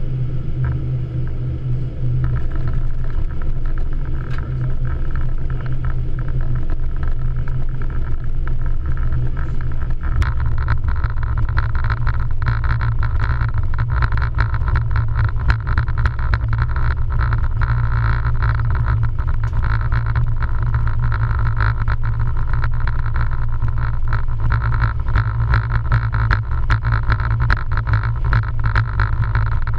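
Cockpit noise of a Boeing 777-300ER on approach: a steady low rumble with rushing air over it. About ten seconds in the noise steps up and turns rougher and louder.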